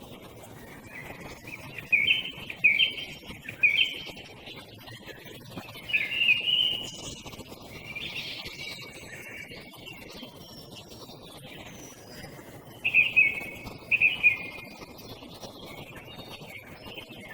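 Songbird singing loud, short phrases in separate bursts, with several phrases repeated in quick succession. Fainter calls of small birds sound in the background.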